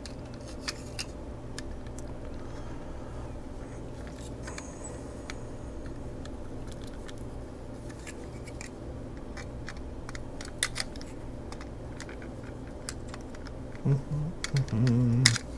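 Scattered small clicks and taps of a water heater thermostat's parts being worked by hand to pry a piece off, over a steady low hum. A few sharper clicks come about two thirds of the way through.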